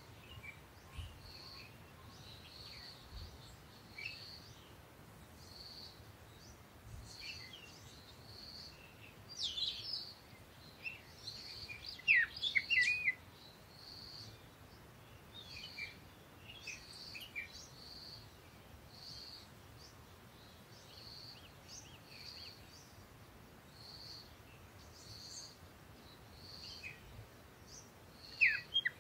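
Birds chirping: a short high note repeats about once a second, with louder, quickly sweeping chirps in the middle and again near the end.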